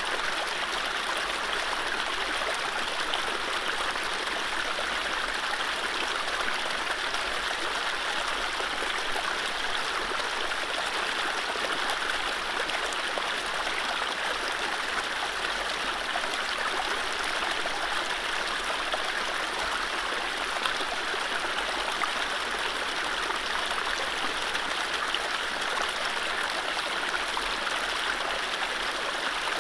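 Mountain stream running over low rapids: a steady rush of water with no birdsong.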